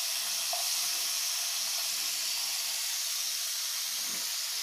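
Thin slices of bitter gourd frying in hot coconut oil, sizzling with a steady hiss.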